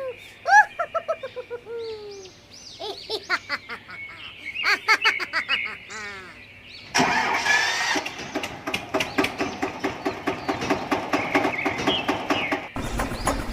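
Repeated falling chirping calls, then about seven seconds in an engine starts abruptly and runs with a fast, rattling chug that grows deeper near the end.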